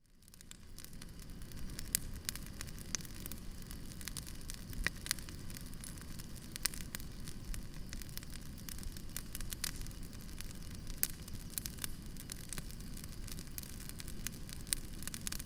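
Wood campfire burning, with frequent sharp crackles and pops over a steady low rumble of the flames, fading in over the first second.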